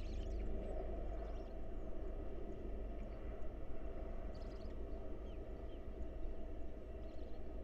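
Steady low rumble of background noise, with a few faint, short high chirps scattered through it.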